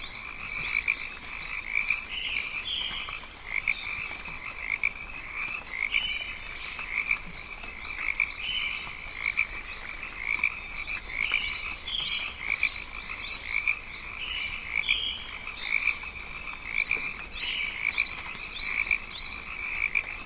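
Rainforest night-style chorus of frogs calling continuously, many overlapping short pulsed calls, with higher quick chirps scattered above them.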